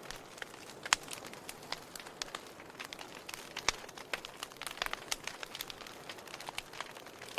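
Firewood burning, crackling with irregular sharp pops and snaps over a soft hiss; a few louder pops stand out, about a second in and near the middle.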